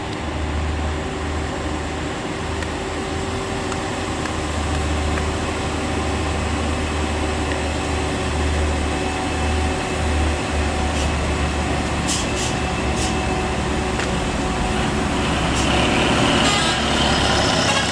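Heavy truck's diesel engine running steadily, a deep, even drone, with a few short sharp hisses or clicks about twelve seconds in.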